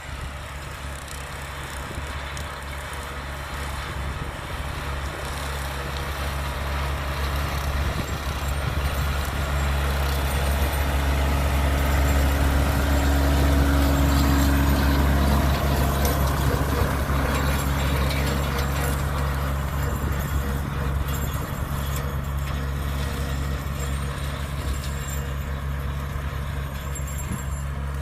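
Tractor engine running steadily under load with a bush hog rotary mower, growing louder as it comes closest around the middle and then easing off somewhat.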